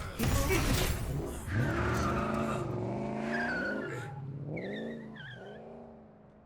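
Cartoon sound effect of a car speeding away: the engine revs up and down in gliding pitch, the tyres squeal briefly, and the sound fades out.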